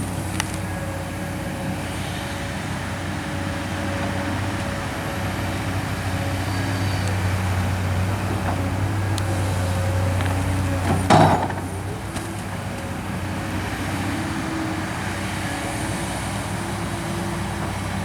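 Kobelco SK200 excavator's diesel engine running steadily under digging load, growing a little louder over several seconds, with one loud clank about eleven seconds in.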